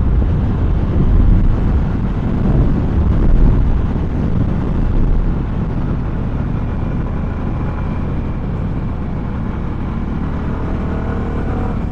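Wind rushing over a helmet-mounted microphone while a CFMoto 300SR's single-cylinder engine runs underneath, the bike under way. The rush gusts loudest in the first few seconds, then settles to a steadier, slightly quieter level.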